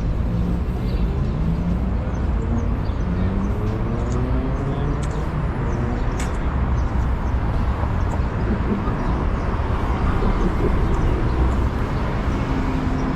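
Busy city ambience: a steady low rumble with a murmur of people's voices and a few light clicks and clatters.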